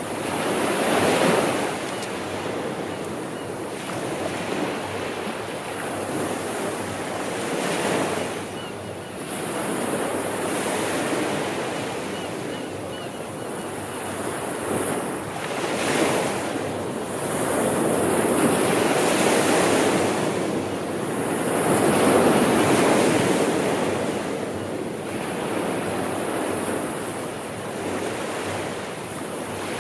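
Sea waves breaking and washing on the shore, a continuous rush that swells and eases every few seconds, loudest about a second in and again in a longer surge past the middle.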